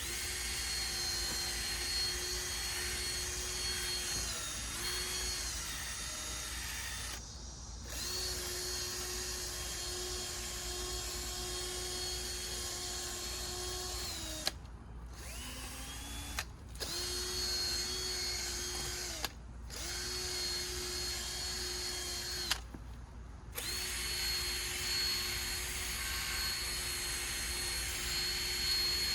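Power drill spinning a 3000-grit sanding disc from a 3M headlight restoration kit against a plastic headlight lens, running as a steady whine. It stops and restarts about five times, and its pitch sags now and then as the pad is pressed on.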